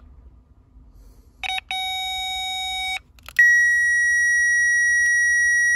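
Electronic circuit tester beeping on a fuse-box circuit: a lower tone for about a second and a half, then a steady higher tone from just past halfway. The tester is signalling ground where there should be power, which is read as a short circuit.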